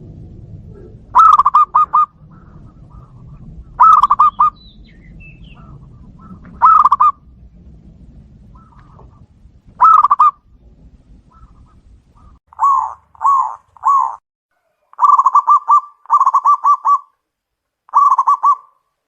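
Zebra doves (perkutut) cooing: short, loud phrases of rapid repeated coo notes. The phrases come every few seconds at first, then in quicker succession in the second half, as the birds call back and forth.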